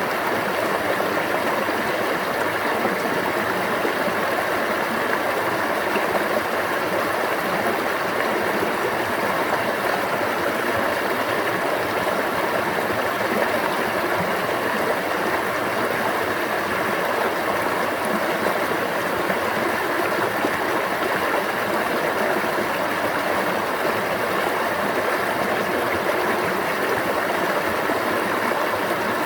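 Stream water babbling in a steady, unbroken rush.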